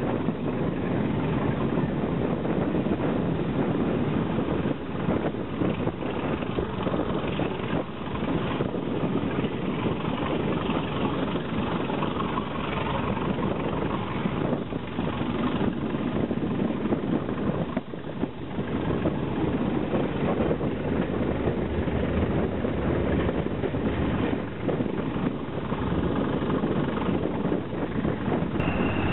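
Diesel-hauled heritage train running along the line, heard from an open carriage window: a steady mix of locomotive engine and wheel-on-rail noise.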